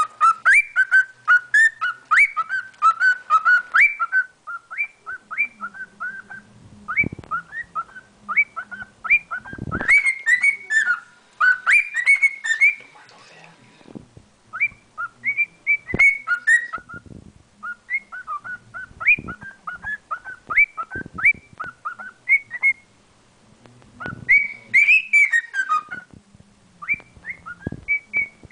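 Male cockatiel singing: a rapid run of short, rising whistled notes, several a second, broken by brief pauses, with a few sharp clicks among them.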